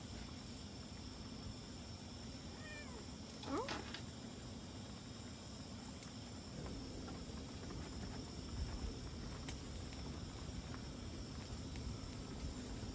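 A pet cat meowing once, a short rising call about three and a half seconds in.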